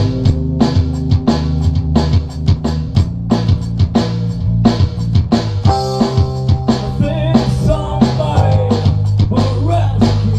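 A band playing a rock song live, with a drum kit keeping a steady beat over bass and electric guitar. A wavering melodic line comes in about seven seconds in.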